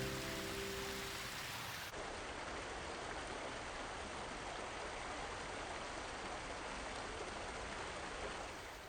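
Music fading out over the first two seconds, then a steady, even rushing noise with no distinct events.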